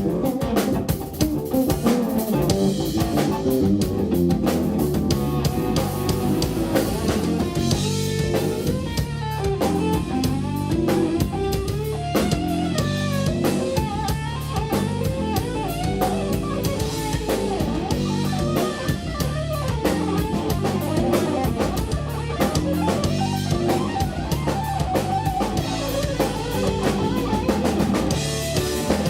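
Live instrumental rock-fusion band playing: electric guitar lines over bass guitar and a drum kit.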